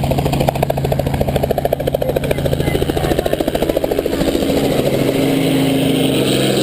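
Robinson R44 helicopter's rotor chopping fast and evenly over its engine hum. About four seconds in the chop fades and a steadier engine drone takes over.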